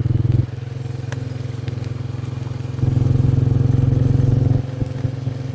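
Vehicle engine running steadily while under way, a low hum that grows louder from about three seconds in for a second and a half, then eases back.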